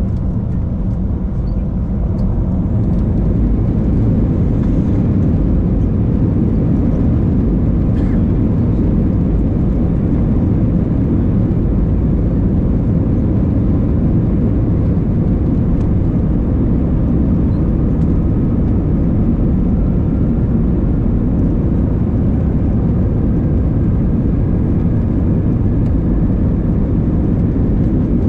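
Airliner cabin noise: a steady low rumble of the jet engines and airframe heard from inside the cabin, swelling between about two and four seconds in and then holding steady.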